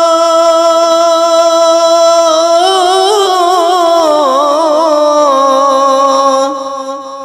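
A Bengali gojol singer's voice holding out a long sung note, then winding through a wavering, ornamented run before settling on a lower note that fades away near the end.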